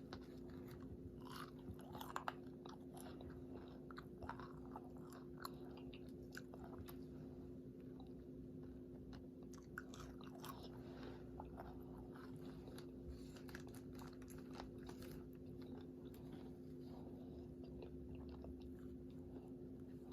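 Faint chewing of a crispy fried chicken sandwich: small irregular mouth clicks and crunches throughout, over a steady low hum.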